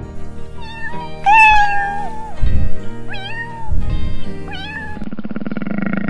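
Kitten meowing several times over background music, mostly short meows with one long, loud meow about a second in. About five seconds in the meows stop and a low, steady buzzing sound takes over.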